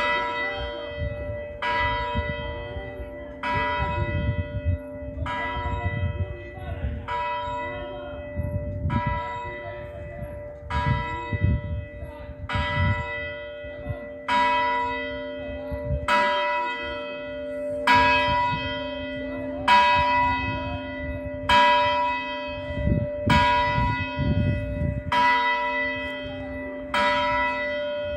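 A 312 kg church great bell tuned to B (h1), swung electrically, ringing with strikes only about every 1.8 seconds. It is striking on one side only because of its clapper tie and a weak drive magnet. Each stroke leaves a long ringing hum, with a low rumbling noise under it.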